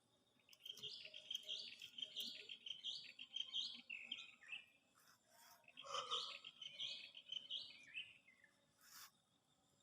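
A small songbird twittering in two quick chirping phrases, each a few seconds long, with a short click near the end.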